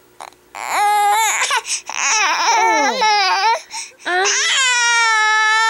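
A three-month-old baby crying in fussy complaint: a few short cries that bend up and down in pitch, one sliding down, then a long steady wail from about four and a half seconds in.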